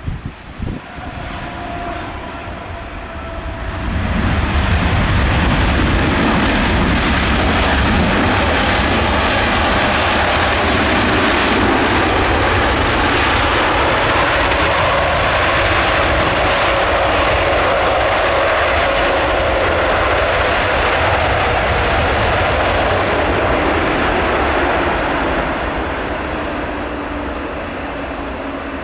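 Jet airliner engines: a faint whine at first, then a loud roar that builds about four seconds in, holds steady, and eases off near the end as the aircraft passes.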